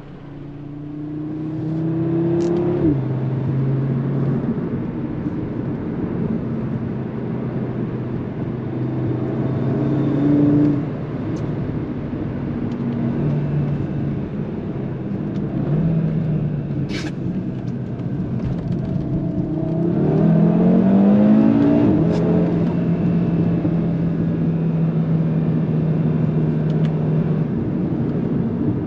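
Audi RS3 sedan's turbocharged 2.5-litre five-cylinder engine, breathing through an exhaust with no particulate filter and the resonator deleted, pulling through the gears on the road. The pitch climbs and drops sharply at upshifts about three seconds in, around ten seconds and again around twenty-two seconds, with steady cruising between and a few sharp cracks.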